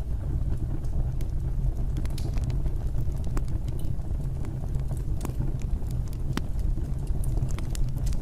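Wood fire crackling: irregular sharp pops and crackles over a steady low rumble of burning.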